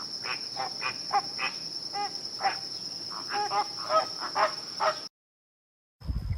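Many short animal calls, a few a second, over a steady high insect trill such as crickets. It cuts off suddenly about five seconds in; a louder new sound with low thuds starts just before the end.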